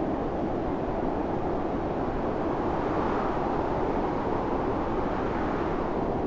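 Howling wind of a snowstorm: a steady rushing that swells a little about halfway through.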